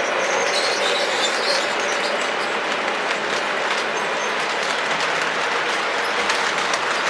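Model trains rolling past on the layout's three-rail track: a steady rumble and clatter of wheels and cars with fine clicks, and a faint steady hum during the first couple of seconds.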